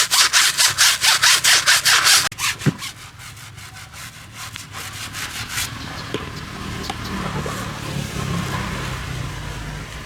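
A stiff brush scrubbing back and forth, about five strokes a second, stopping abruptly about two seconds in. Fainter scrubbing strokes follow, then a steady hiss with a low hum in the second half.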